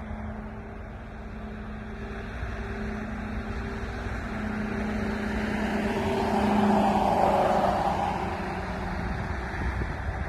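Airliner cabin noise: a steady jet-engine drone with a low hum, swelling louder for a couple of seconds about six seconds in.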